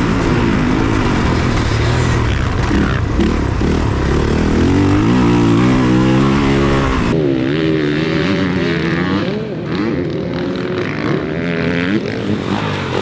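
Dirt bike engine revving hard up and down through corners and gear changes on a motocross lap. About halfway through, the deep low end drops away suddenly and the engine sounds thinner.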